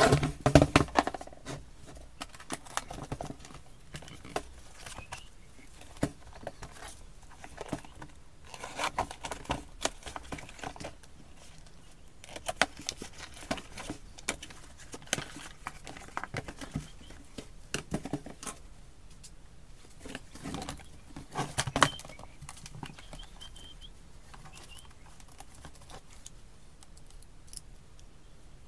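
Tools and packaging being handled: irregular clicks, knocks and rustling, loudest at the very start and again about three-quarters of the way through, dying down near the end.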